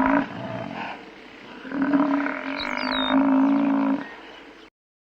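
Buffalo calling: two long, low bellows, the second starting about two seconds in, with a short bird chirp above each. The audio cuts off suddenly near the end.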